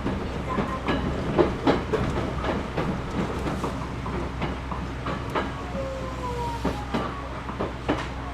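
Interior running sound of a JR Series 211-5000 electric train: a steady low rumble with wheels clicking irregularly over rail joints and points, and faint squealing tones that glide slightly downward in the second half.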